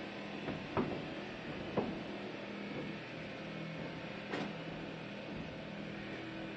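Engine of heavy loading machinery running steadily, with a few sharp knocks, the loudest about two-thirds of the way through.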